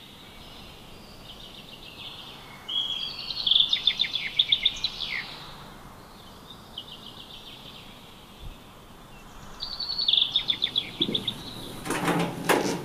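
A songbird singing two bouts of rapid, high trilled phrases, about seven seconds apart, over a steady background hiss. A few sharp knocks come near the end.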